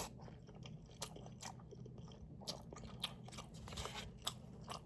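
A person chewing food close to the microphone: faint, irregular wet clicks and smacks of the mouth.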